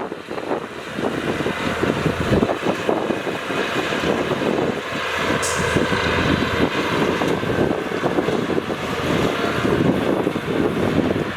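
Heavy earthmoving machinery at work, dump trucks and bulldozers, with their diesel engines running in a continuous rough noise.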